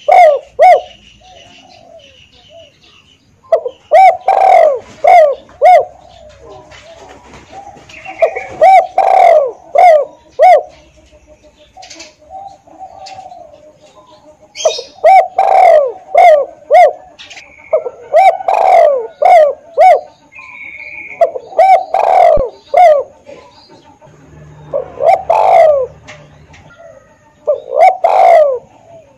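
Spotted dove (tekukur) cooing: phrases of several quick coos, repeated every few seconds.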